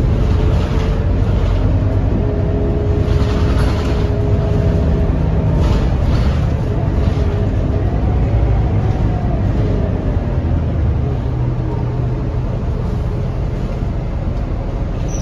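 Scania K230UB city bus's diesel engine and driveline running under way: a steady low hum with whining tones that rise and fall gently around the middle, easing off slightly over the last few seconds.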